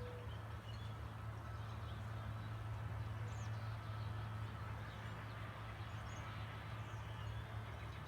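Small birds chirping faintly a few times over a steady low rumble.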